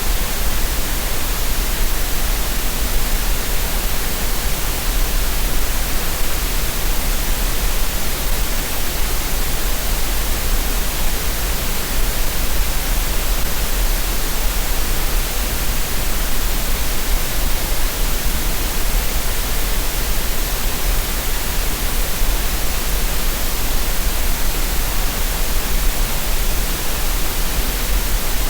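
Green noise, a synthetic relaxation noise, playing as a steady, unchanging hiss with a strong deep rumble underneath.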